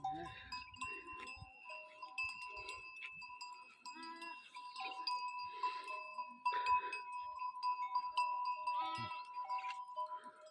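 Small livestock bleating a few times, with separate calls about four seconds in and again near nine seconds, over steady ringing tones.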